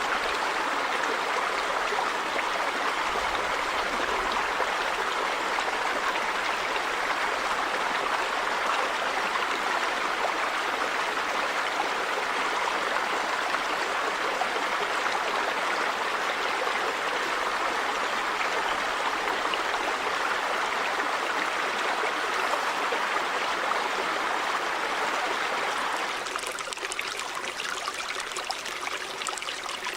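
River water flowing in a steady rush. About 26 seconds in, it turns quieter and thinner, with more small splashing and trickling.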